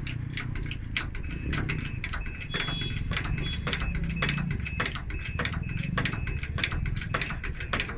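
Irregular metallic clicks and knocks of tools being worked on a bus wheel during a tyre change, over a low rumble. From about two seconds in, a short high beep repeats roughly twice a second.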